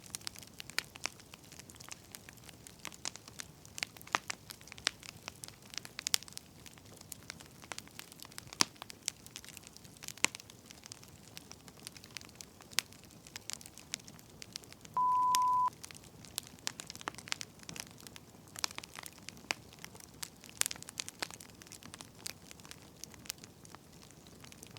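Wood fire crackling, with irregular sharp pops and snaps over a faint hiss. About fifteen seconds in, a single short, high electronic beep sounds once: a pomodoro timer signal.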